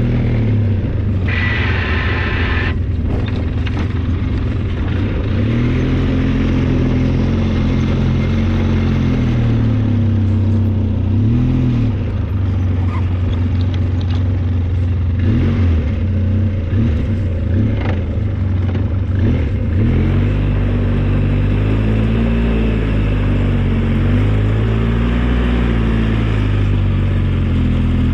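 The engine of an old snow-plowing vehicle running hard, its speed rising and falling again and again as it works. A brief higher hiss comes about a second in, and a few knocks and clanks come along the way.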